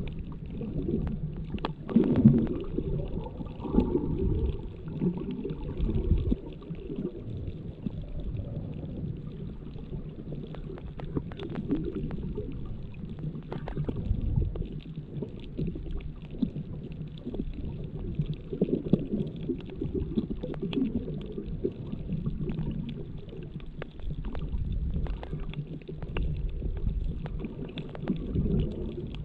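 Underwater ambience picked up by a GoPro Hero7's built-in microphone with no waterproof case: a muffled, uneven low rumble of moving water with scattered sharp clicks.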